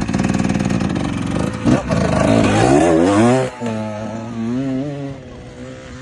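Off-road dirt bike engine at high revs. Its pitch climbs hard for about a second and a half, then the throttle is shut suddenly just past halfway. After that the engine runs lower, its pitch rising and falling with small blips of throttle.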